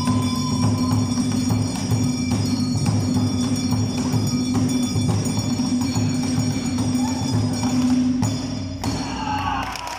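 Live Awa Odori music played by a dance troupe: a steady drum beat under ringing bells and metal percussion, with a short gliding melody line twice. The music stops just before the end.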